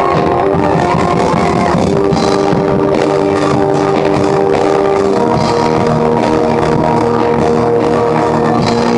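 Church band playing loud rock-style instrumental music, with held chords that change about five seconds in.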